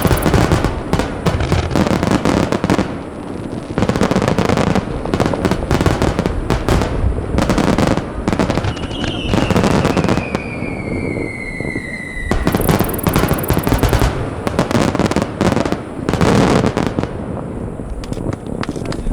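A rapid barrage of aerial firework shells bursting, with many bangs overlapping without pause. About nine seconds in, a thin whistle falls steadily in pitch for some three seconds.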